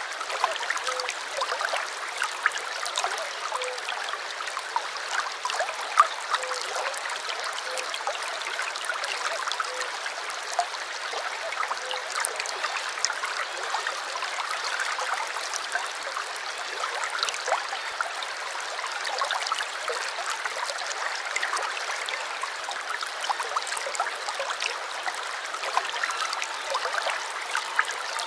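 Small brook babbling and trickling over stones, a steady flow of water with many small splashes and drips.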